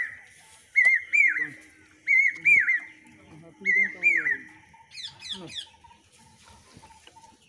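A bird calling repeatedly: pairs of clear arching whistled notes about every second and a half, then a quick run of sharply falling notes about five seconds in.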